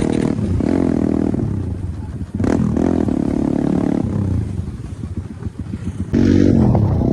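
250 cc dirt bike engine running under way, its pitch rising and falling with the throttle. It eases off for a couple of seconds with an uneven crackle, then comes back loud a second before the end.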